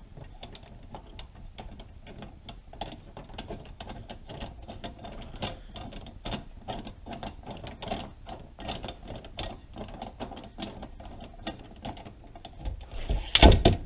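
Ratchet wrench clicking rapidly as it tightens the nut on a slide hammer bearing puller, with one loud knock near the end.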